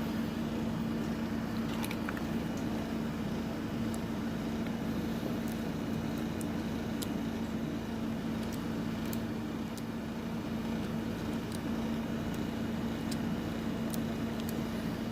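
A power drill running steadily at a constant pitch as its bit slowly cuts into the pin stacks of a Kaba padlock's core, with a few faint scattered ticks.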